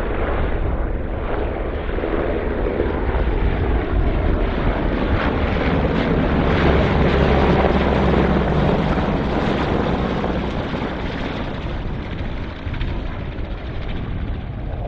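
Danish AgustaWestland EH101 Merlin helicopter flying past at low level, its rotor and turbine noise swelling to its loudest about halfway through and then easing off.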